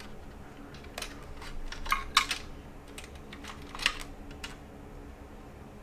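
Scattered light clicks and taps of hands handling PC components and parts during assembly, with a few sharper clicks about one, two and four seconds in.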